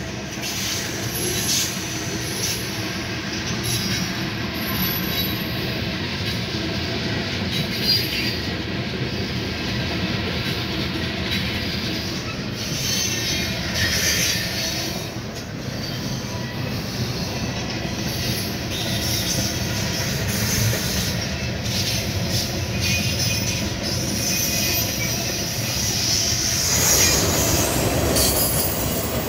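Norfolk Southern freight train's cars rolling steadily past, steel wheels running on the rails, growing louder and fuller near the end.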